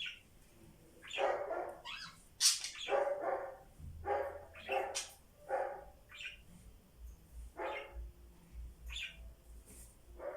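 Pet birds calling: a run of about a dozen short, harsh calls mixed with thin, high chirps, most frequent in the first half.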